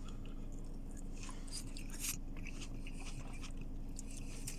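A person chewing crunchy salad, with short wet crunches and crackles close to the microphone, over a steady low hum.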